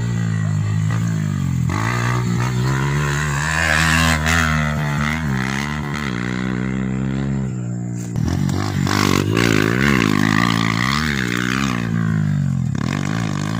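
Dirt-track racing motorcycle engines revving hard, the pitch climbing and dropping with throttle and gear changes. About eight seconds in the sound dips briefly, then comes back with quick up-and-down revs.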